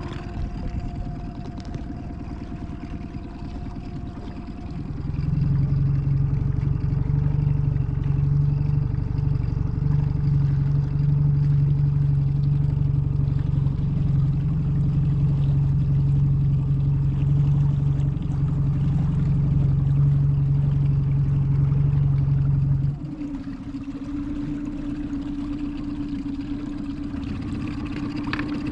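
A boat's engine running steadily. About five seconds in it gets much louder, as if opened up to a higher throttle, and stays there until it drops back to its quieter, lower-throttle running about six seconds before the end.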